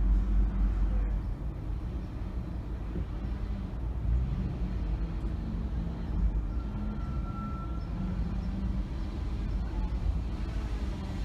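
Car driving in city traffic, heard from inside the cabin: steady deep road rumble with a low engine hum that rises and falls. A brief thin high tone sounds for about a second just past the middle.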